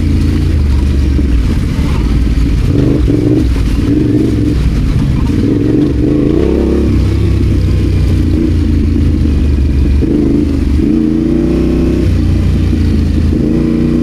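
Adventure motorcycle engine running continuously under way, its revs rising and falling several times as the throttle is opened and closed.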